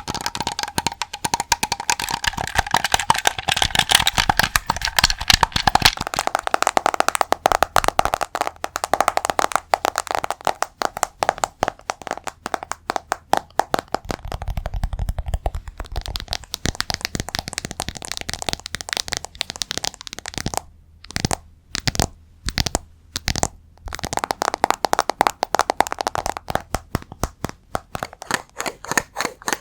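Rapid ASMR tapping, many taps a second. About two-thirds through it slows to a handful of separate taps for a few seconds, then turns fast again.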